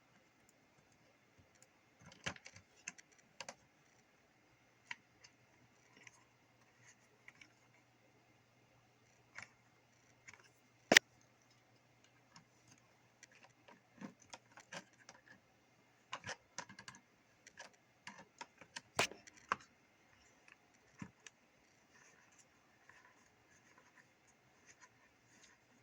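Scattered small clicks and metallic clinks of hand tools working a metal antenna stud out of a CB radio's plastic housing, with a sharp knock about eleven seconds in and another a little before twenty seconds.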